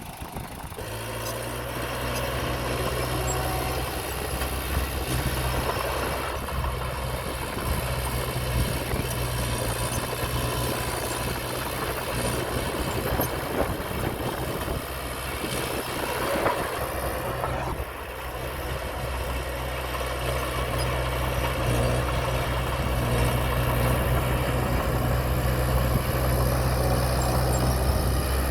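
Diesel engine of earthmoving equipment running steadily, a low engine hum that grows somewhat louder toward the end.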